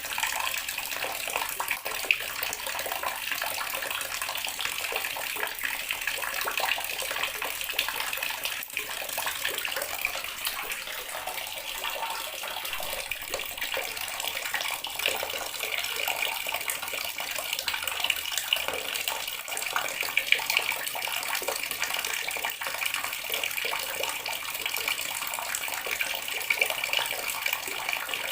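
Water running steadily from a tap, a continuous splashing stream with its hiss strongest in the upper-middle range.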